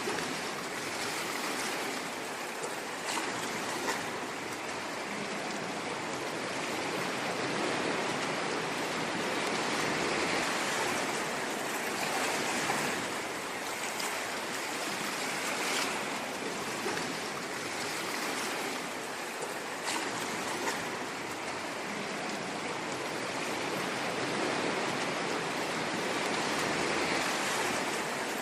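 Ocean waves washing on a shore: a steady rushing hiss that swells and eases gently every few seconds, with faint splashes and crackles.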